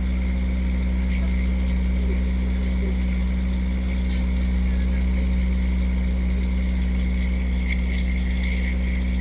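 Boat's motor running steadily, a constant low drone.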